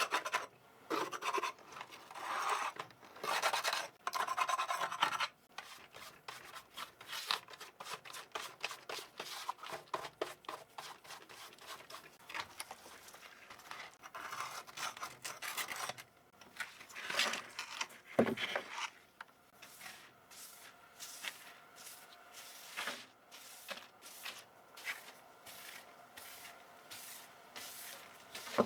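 Scrubbing on a dirty computer keyboard. A few long rubbing strokes come first, then a run of quick short scratches and clicks, then fainter brisk back-and-forth strokes about two a second.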